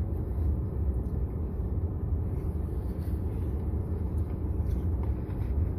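Steady low rumble of a car's running engine, heard from inside the cabin.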